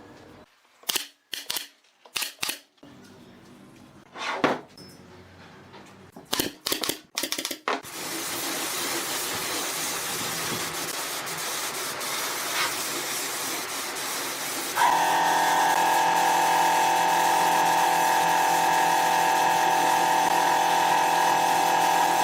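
Scattered knocks and clicks, then a steady noise, joined about halfway through by a power tool's motor starting up and running with a steady whine.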